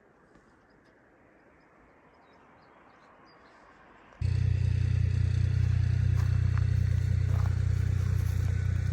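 Faint background with a few soft bird chirps, then an abrupt cut about four seconds in to a loud, steady, low motor drone that runs on.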